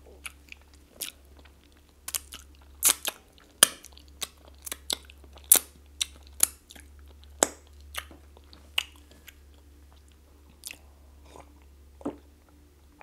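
Close-up wet chewing and lip smacking of a person eating chicken and plantain pepper soup with the fingers. Irregular sharp smacks come about every half second for the first nine seconds, then only a few more.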